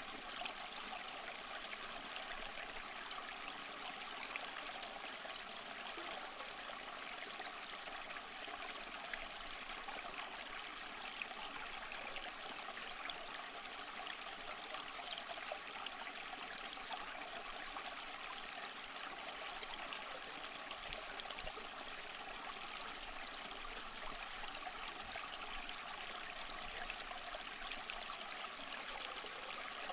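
Small stream flowing steadily over stones: continuous bubbling and trickling with no pauses or changes.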